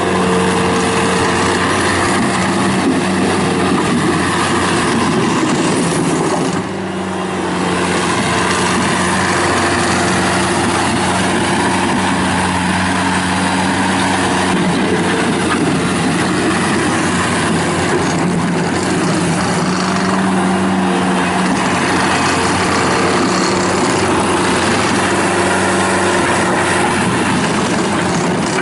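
Kubota diesel engine of a 2012 Bobcat T190 rubber-track skid steer loader running steadily, with a brief drop in level about seven seconds in.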